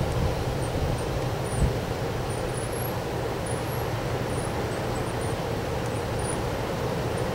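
Strong wind blowing and buffeting the microphone: a steady low rumble, with a brief thump about a second and a half in.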